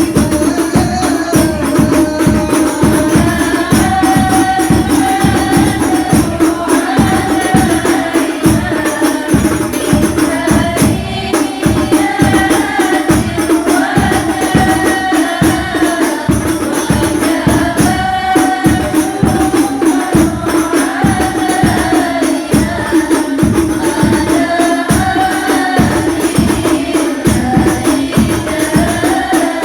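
Sholawat, Islamic devotional song, sung by voices over a steady fast beat of hand-struck frame drums.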